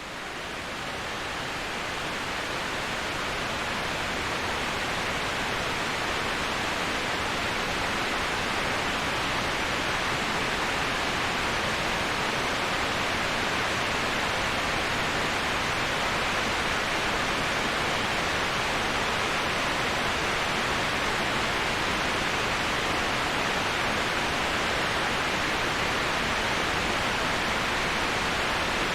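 Waterfall white noise, a steady even rush of falling water with no separate splashes, fading in over the first couple of seconds.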